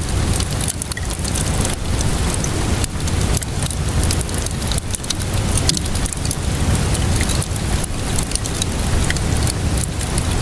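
Wood fire crackling with many small irregular pops over steady rainfall, with a continuous low rumble underneath.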